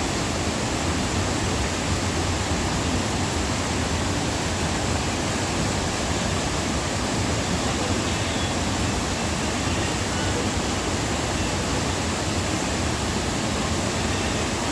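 Waterfall rushing, a steady loud wash of falling water without a break.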